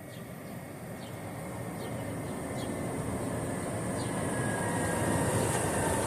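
A passing vehicle approaching, its steady noise growing louder throughout.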